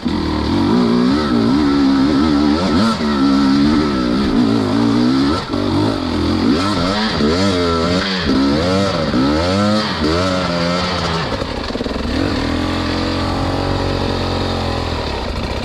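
Dirt bike engine being ridden, revving up and down again and again as the throttle is opened and shut, then running steadier for the last few seconds.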